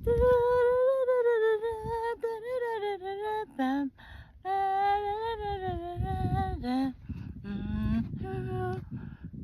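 A woman singing unaccompanied in long held, wavering notes, with a short break midway and shorter phrases toward the end.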